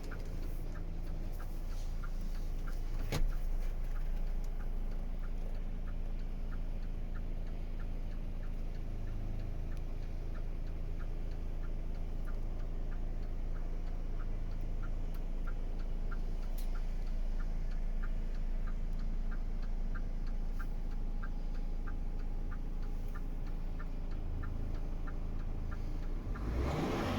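DAF XF 460 truck's six-cylinder diesel engine idling steadily, with a regular light ticking about twice a second over it and a short louder swell near the end.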